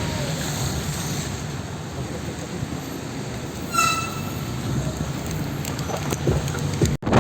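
Steady rumble and road noise of a moving vehicle, with one short horn beep about four seconds in. The sound cuts out abruptly near the end.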